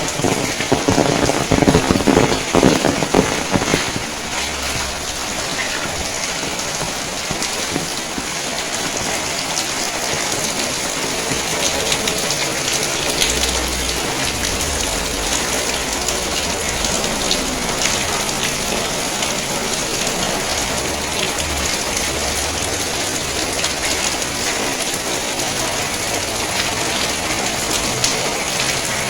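Steady rain falling, with many small drop ticks striking surfaces. It is louder and denser for the first few seconds, then settles to an even level.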